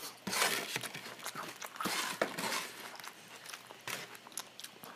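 Close-miked eating sounds: a man chewing food, with irregular small clicks and smacks.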